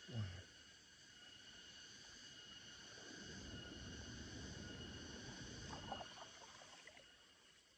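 Insect chorus: several steady high-pitched trills running together, faint. A brief low thump right at the start and rustling from about three to six seconds in.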